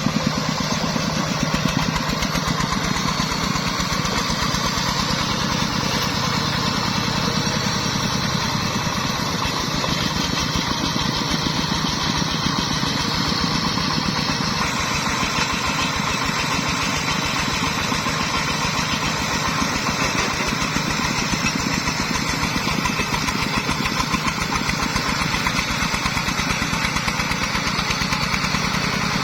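Single-cylinder diesel engine of a công nông farm truck running steadily with a fast, even chugging.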